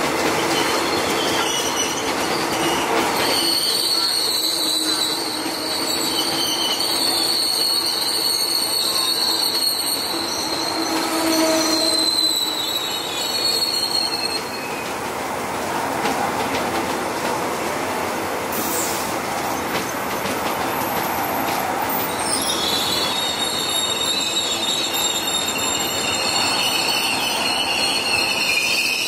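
Train moving along the track, a steady rumble of wheels on rail with high-pitched squealing tones that come and go, strongest in the first half and again near the end.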